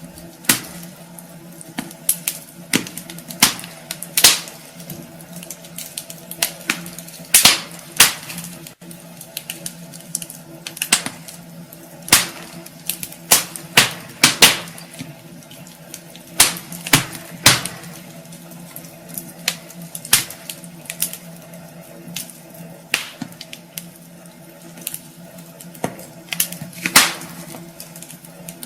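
Wood fire in a fireplace crackling: irregular sharp pops and snaps, a few every couple of seconds, over a steady low hum.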